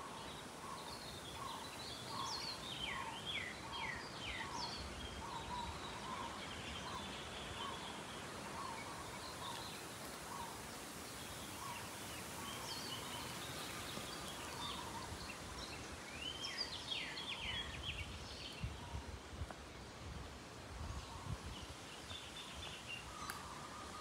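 Several birds calling in the trees over a steady outdoor background hiss: clusters of sharp falling chirps, and a string of short repeated lower notes.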